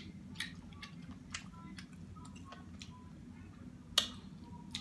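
Soft eating sounds: scattered small mouth clicks and chewing, with one sharper click about four seconds in.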